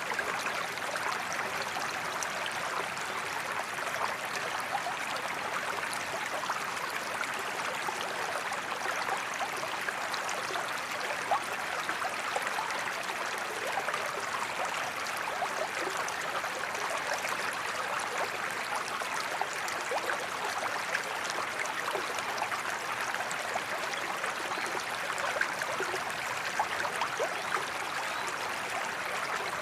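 Waterfall water running, a steady even rush with many small splashes scattered through it.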